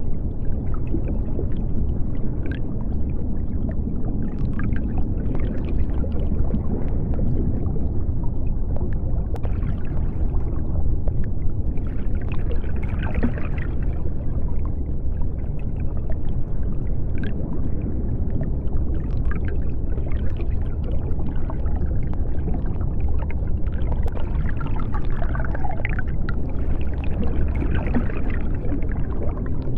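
Underwater ambience: a steady deep rumble of water, with short bubbling and gurgling sounds coming and going above it.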